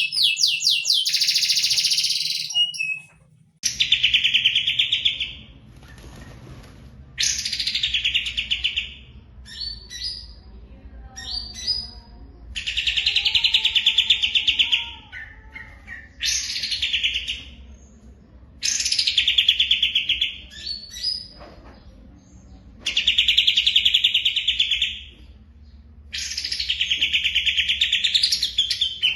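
A songbird singing loud, rapid trilled phrases of one to three seconds, repeated about seven times with short pauses between them.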